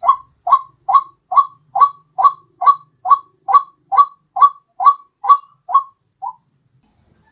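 White-breasted waterhen's repeated call, a lure recording: a run of about fourteen short rising notes, a little over two a second, that stops about six seconds in with one fainter note after it.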